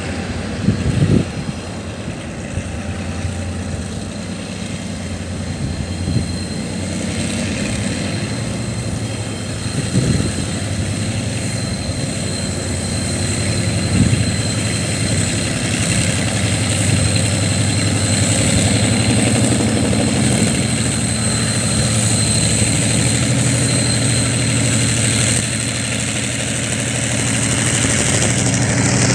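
Diesel locomotive of a freight train running: a steady low engine drone with a thin, steady high whine and a few short knocks.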